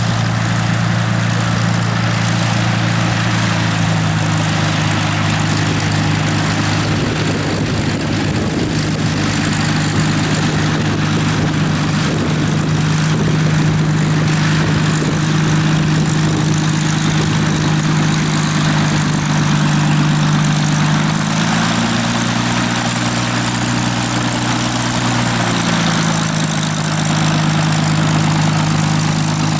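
Rolls-Royce Merlin V12 piston aero engine of a Second World War fighter running steadily with its propeller turning. About twenty seconds in the engine is opened up, rising in pitch, and a few seconds later it settles back to its earlier speed.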